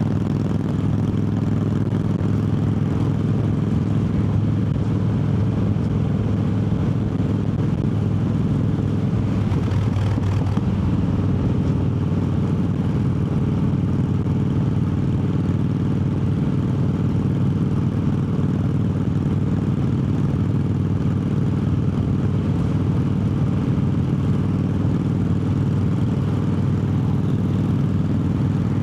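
Triumph Bobber's parallel-twin engine running steadily under way, with a brief change in its note about ten seconds in.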